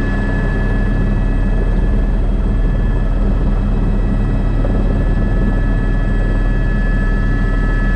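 Airbus AS350 B3 (H125) helicopter running steadily in flight, its rotor and turbine giving a constant low drone with a steady high whine over it.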